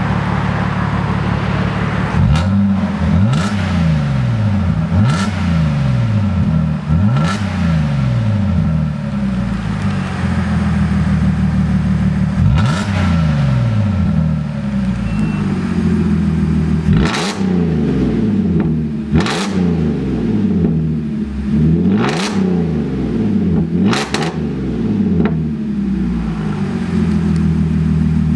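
A car engine idling through an aftermarket stainless-steel exhaust with an exhaust cutout, blipped about nine times in quick revs that drop straight back to idle.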